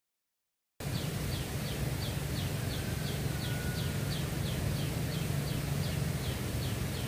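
A bird repeating a short, high note that slides downward, evenly about three times a second, over steady outdoor hiss and a low hum. The sound drops out completely for a moment at the start.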